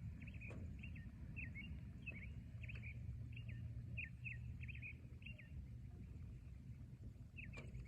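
A bird chirping a quick series of short calls, about two a second, which stops about five seconds in and gives one more chirp near the end, over a steady low rumble of outdoor ambience.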